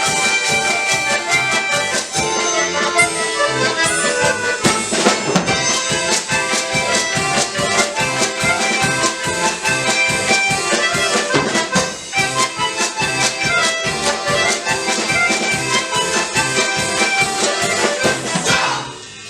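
Bayan (button accordion) orchestra playing a lively piece over a steady, even bass beat. The music stops with a last chord shortly before the end.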